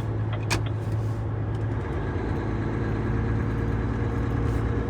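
Renault T-range truck's diesel engine droning steadily while driving, heard inside the cab, with a sharp click about half a second in.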